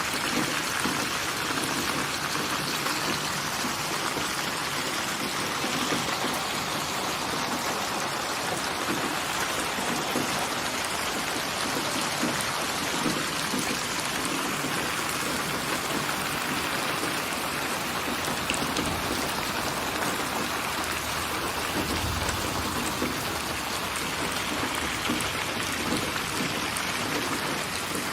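Steady rain falling and pattering on surfaces, an even continuous hiss, with a brief low rumble about three-quarters of the way through.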